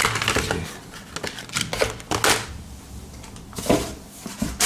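Small cardboard knife boxes and packaging handled by hand: scattered light taps, clicks and brief rustles.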